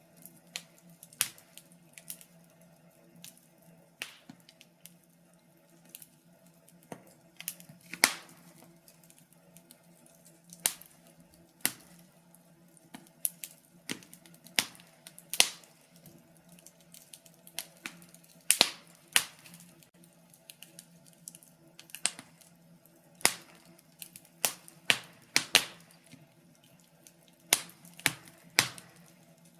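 Wood fire crackling: irregular sharp pops and snaps, several every couple of seconds, some much louder than others, over a faint steady low hum.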